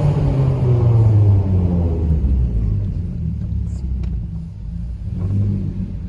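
Straight-piped Mazda 3 Skyactiv 2.0 four-cylinder exhaust, its note falling as the revs drop off, then running low and steady with a small rise in revs about five seconds in.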